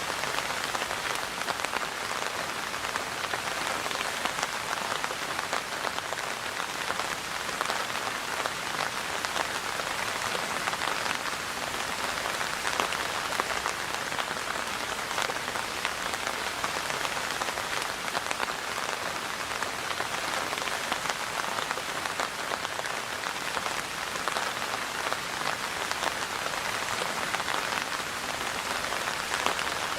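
Steady rainfall, with many fine drops pattering on a surface.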